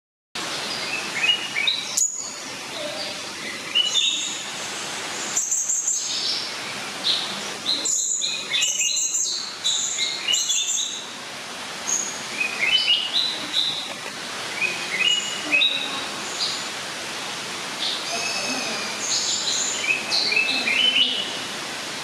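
Several birds chirping and calling at once, many short high notes, some in quick rising runs, over a steady background hiss.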